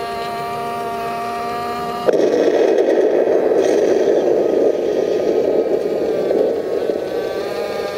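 Drive motor and gearbox of an RC model tank whining steadily. About two seconds in it switches abruptly to a louder rough grinding noise, which lasts about five seconds before the whine returns near the end.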